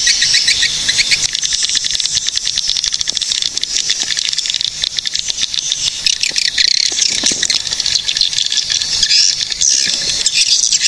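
Many swiftlets calling together: a dense, unbroken chatter of rapid, high chirps and trills.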